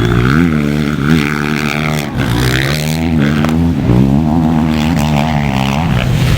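Motocross bike engines at race speed, several at once, revving up and dropping back over and over as the riders shift gears and throttle through the track.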